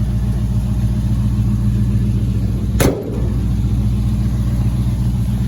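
305 small-block Chevy V8 idling steadily, with a single sharp knock about three seconds in.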